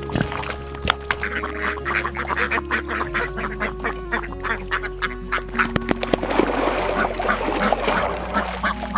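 Farmyard poultry calling in a rapid run of many short calls, over steady background music with held tones.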